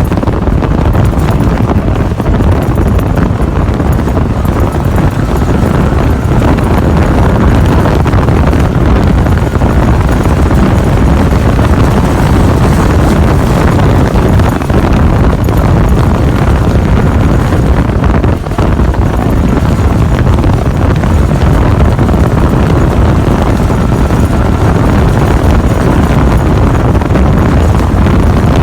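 Class 2 Baja off-road race truck's engine running loud and steady, deep and heavy in the low end, with a brief dip in level about two-thirds of the way through.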